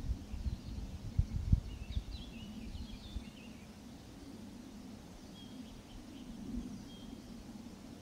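Songbirds in woodland: a quick burst of twittering chirps about two seconds in, then a few thin, high single notes later. Low gusts of wind rumble on the microphone in the first second or so.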